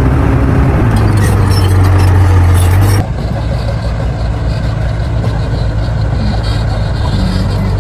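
Bulldozer's diesel engine running with a steady low drone and scattered metallic clanks; about three seconds in the sound drops suddenly to a quieter, steadier engine drone.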